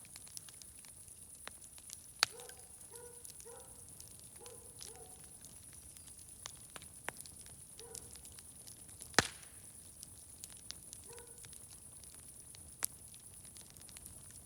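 Wood fire crackling, with sharp irregular pops over a steady faint hiss; the loudest pops come about two seconds in, near the middle, and about thirteen seconds in. A few brief low pitched sounds come and go between the pops.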